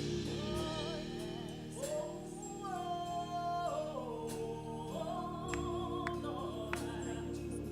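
Slow gospel worship song: a singer holds long, gliding notes over sustained chords.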